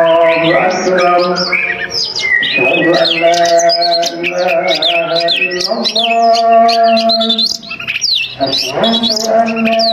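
Oriental magpie-robin (kacer) singing hard in quick, sharply gliding whistled phrases. Under the song runs a held, chant-like melody of long steady tones, which is the louder part of the low end.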